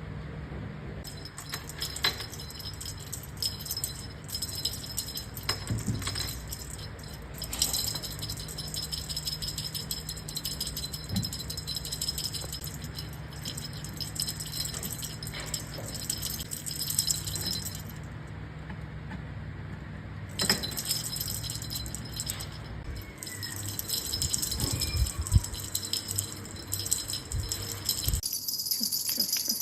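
Rapid, continuous metallic jingling and rattling that stops for about two seconds around 18 seconds in, then resumes. A steady low hum runs underneath.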